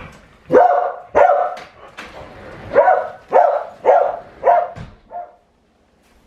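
A pet dog barking repeatedly to be let outside: a pair of barks, then a quicker run of four, and a faint last one, after which it stops.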